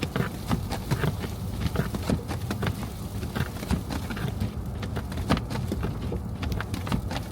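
Car driving through a snowstorm: a steady low road rumble with many irregular ticks and taps, like snow and ice striking the car or crunching under the tyres.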